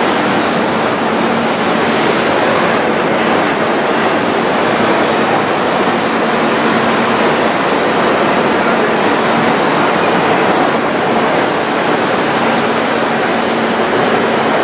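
Hitachi HTR412 Blues train standing in the station with its onboard equipment running: a steady rushing noise with a low, even hum underneath.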